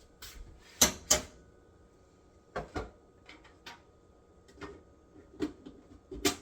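Kitchen clatter: sharp knocks and taps of utensils or cookware. A loud pair comes about a second in and another pair near the three-second mark, with lighter taps between and one more knock near the end.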